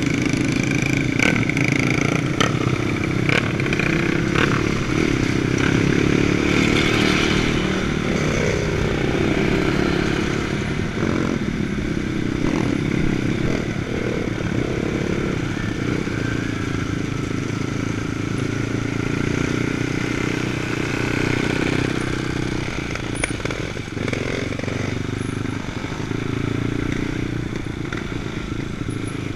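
Jotagas two-stroke trials motorcycle engine running and revving up and down with the throttle as the bike is ridden, with a few sharp clattering knocks in the first few seconds.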